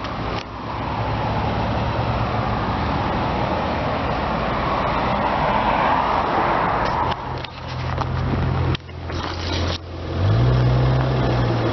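Car engine running with a steady low hum. A rushing swell of road noise rises and fades about halfway through, like a passing vehicle. Near the end the engine hum grows louder and steps up in pitch.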